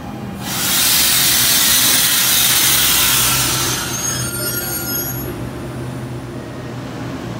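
NJ Transit Arrow III electric multiple-unit train pulling in and braking along the platform: a loud rushing hiss for about three seconds. It fades with faint high squeals as the train slows to a stop, over a steady low hum from the train's equipment.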